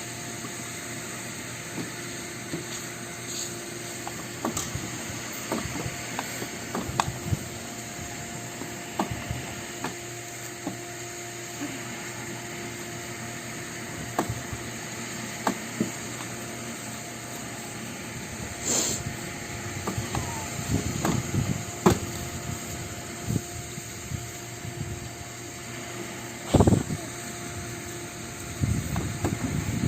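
Scattered clicks and knocks from handling a cold four-wheeler that will not start, with one louder thump about 27 seconds in, over a steady hiss and low hum; the engine does not run.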